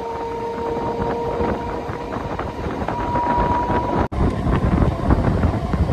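Passenger train running along the track: a steady rumble with scattered knocks and rattles, wind on the microphone, and a thin, steady high whine held for a few seconds.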